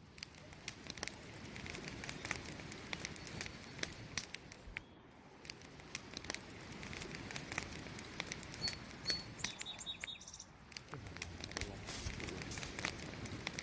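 Wood burning in a campfire, crackling with quick, irregular pops over a low, steady hiss. A couple of short, high chirps sound about nine seconds in.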